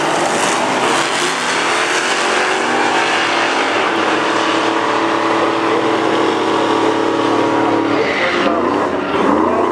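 Drag racing vehicles launching and running down the strip, engines at full throttle rising steadily in pitch, then dropping off about eight seconds in.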